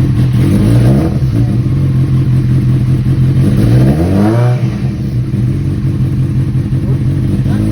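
Kawasaki Z800's inline-four engine idling, revved with a short throttle blip about a second in and a bigger rev around four seconds in, the pitch rising and then dropping back to idle.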